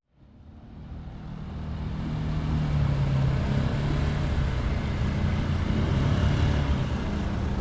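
Road traffic: a steady rumble of motor vehicles with a low engine hum. It fades in over the first couple of seconds.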